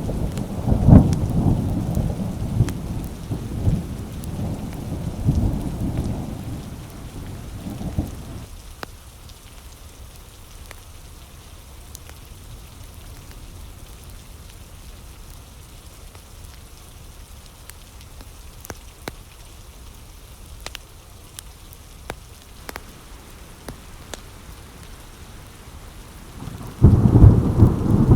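Thunderstorm: a rolling rumble of thunder that fades out over the first eight seconds or so, then steady rain with scattered drop ticks, until another loud clap of thunder breaks in suddenly near the end.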